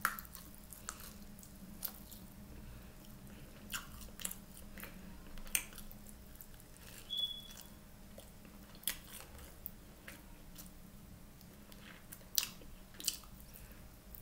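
Close-up mouth sounds of a person eating a barbecue chicken wing: biting and chewing, with about a dozen sharp clicks spread unevenly through it.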